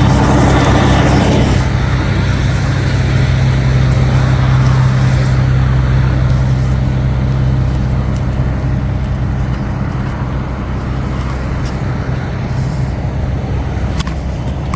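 A heavy vehicle's engine running steadily with a deep, even hum, amid roadway traffic noise. A few sharp clicks come near the end.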